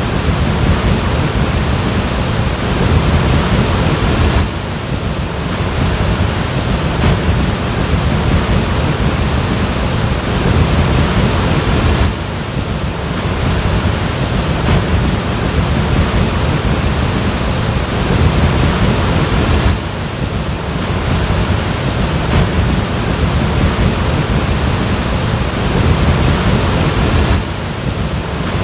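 Floodwater rushing in a loud, steady noise with no distinct events, dipping briefly about every seven or eight seconds.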